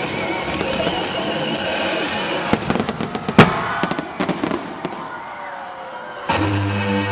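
Fireworks crackling and bursting, with a cluster of sharp bangs around the middle, the loudest about three and a half seconds in, then dying away. Music with a heavy, steady bass starts near the end, the next segment of the fireworks soundtrack.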